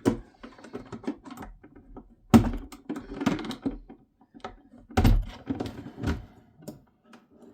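Boiler parts being worked by hand to free a stuck fixture: a run of clicks, taps and rattles, with heavier knocks about two and a half and five seconds in.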